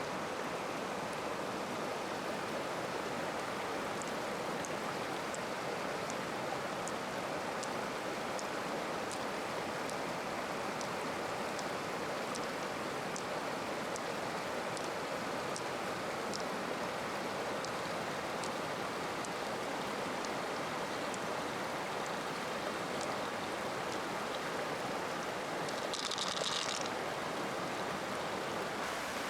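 Steady rush of flowing stream water. Faint sharp ticks come and go throughout, and a short high-pitched sound rises above the water near the end.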